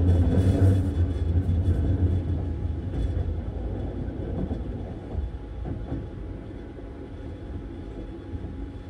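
Sunrise Express sleeper train's running noise heard inside the compartment: a low rumble of wheels on track, loudest at first and fading over the next several seconds.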